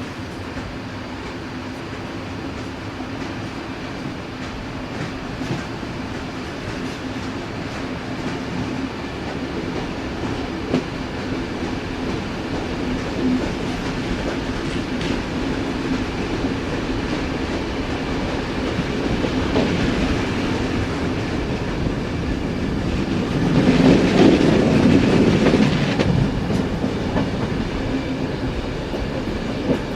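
Passenger train running along the track: steady rolling of wheels on rails with a low hum and occasional sharp clicks, growing gradually louder, with a louder stretch about three-quarters of the way through.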